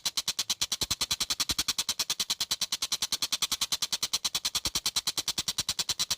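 Tengkek buto, a kingfisher, calling in a fast, even chatter of sharp notes, about ten a second without a break. It is the steady rattling call likened to a train.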